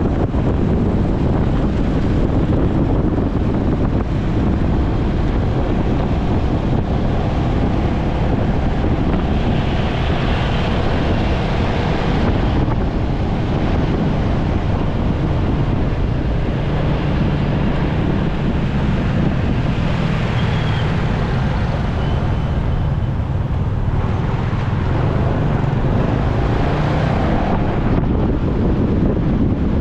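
Wind rushing over the microphone of a moving motorcycle, with the motorbike's engine running and road traffic around it.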